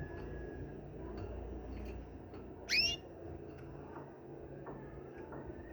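A single short whistled bird call, rising sharply in pitch, about three seconds in, over a steady low background rumble.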